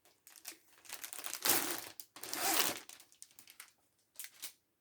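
Rustling and crinkling of plastic kit packaging being handled, with light clicks and taps and two louder rustles about one and a half and two and a half seconds in.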